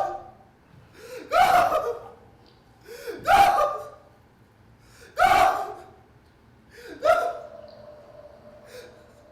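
A person letting out four loud gasping cries, about two seconds apart, each starting with a sharp breath. A faint steady tone hangs on after the last cry.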